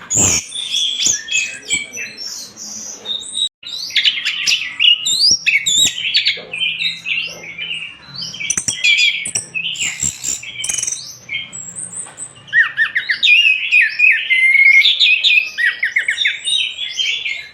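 Orange-headed thrush singing a rapid, varied run of whistled and chattering phrases, with a brief gap about three and a half seconds in.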